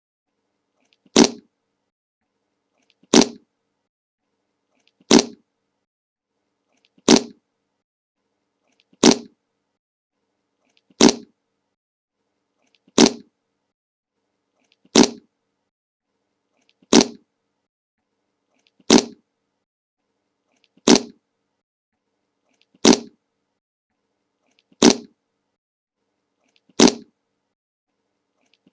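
The same short fart sound effect, played over and over on a loop: a brief, sharp fart about every two seconds, each one identical, with silence between.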